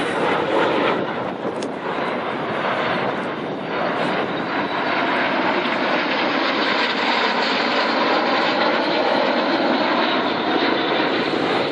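Turbofan jet engines of L-39C Albatros jet trainers flying a display, a steady loud jet roar with a faint drifting whine.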